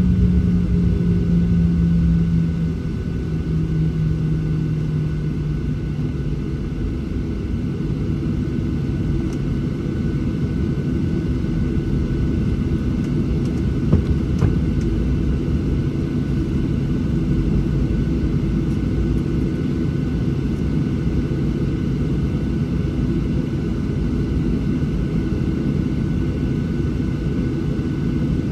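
Boeing 737-700 engines and airflow heard from inside the passenger cabin: a steady, loud low drone with a humming engine tone that drops a little in pitch and level about two to three seconds in, then holds steady.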